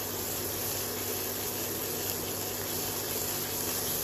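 Thick masala paste sizzling and spluttering in hot oil in a kadhai as it is stirred, a steady crackle under a faint low hum. The paste is at the frying stage where it is cooked until the oil separates.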